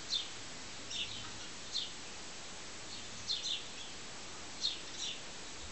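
A small bird chirping repeatedly: short, high, falling chirps about once a second, some in quick pairs, over a steady background hiss.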